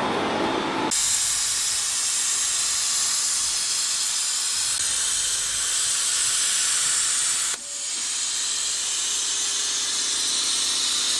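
A steady spraying hiss, like gas escaping under pressure, in two long stretches with a brief break about seven and a half seconds in.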